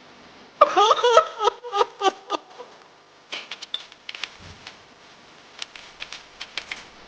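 A wavering, high pitched sound in quick pulses for about two seconds, then a run of light, irregular clicks and ticks.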